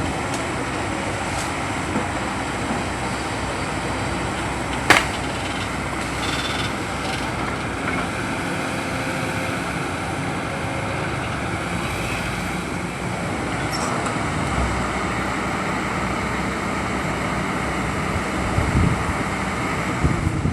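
Steady engine noise, with a single sharp click about five seconds in and a few low thumps near the end.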